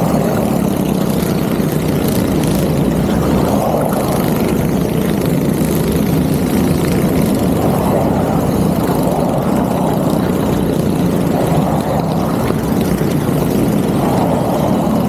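Go-kart engines running steadily, with the engine note swelling every few seconds.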